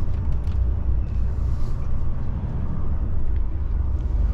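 DAF truck's diesel engine and tyre noise heard from inside the cab while driving, a steady low rumble.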